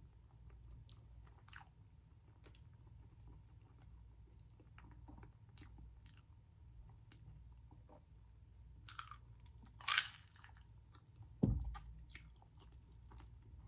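A person chewing and biting crispy fried street food close to the microphone: soft mouth clicks and crackles, with louder crunchy bites about nine and ten seconds in and a low thump a little later.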